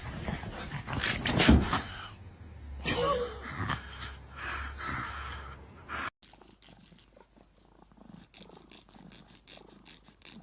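Sounds from a pet animal in two clips cut together. The first is louder and more varied and stops abruptly about six seconds in; the second is quieter and made of short, evenly repeated strokes.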